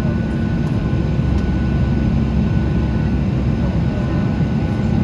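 Boeing 737 jet engines running steadily with airflow noise: a steady low rumble with a faint, thin whine.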